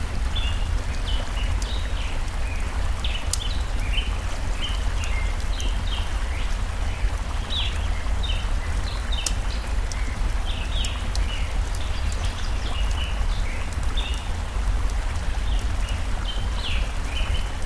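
Steady rush of a flowing stream with many short bird chirps over it throughout, and a few sharp pops from a crackling wood fire.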